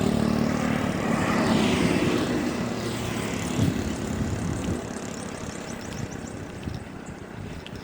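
Motorcycle engine running on the road with road noise. The engine is loudest at first and falls away over the second half.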